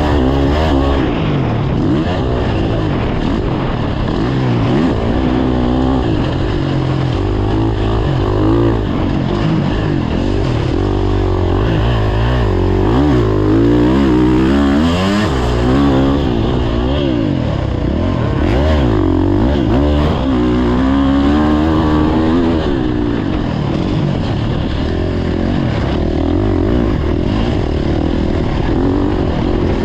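Motocross dirt bike engine under hard riding, its pitch rising and falling over and over as the throttle is opened and closed.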